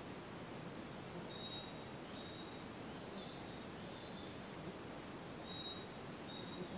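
Wild songbirds singing in a beech forest: one bird repeats the same short phrase twice, about four seconds apart, a quick run of high notes ending on a held whistle, with a few softer calls between. A steady background hiss runs underneath.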